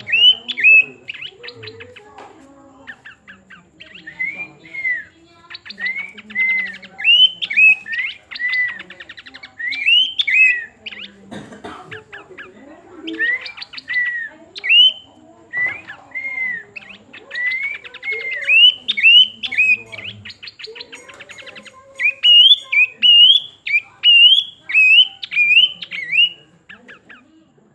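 Planduk semak songbird singing: phrases of loud, clear whistled notes that slur up and down, mixed with quick dry rattling ticks, broken by short pauses.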